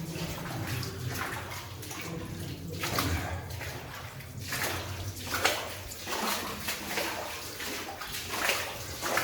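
Legs wading through shallow standing water, sloshing and splashing with each stride, about one surge a second.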